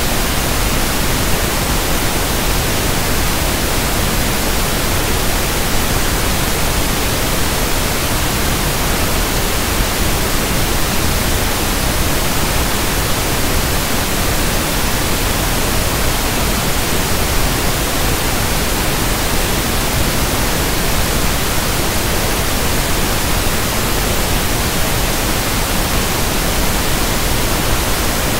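Steady, unchanging pink noise (1/f noise): an even hiss spread across the whole range.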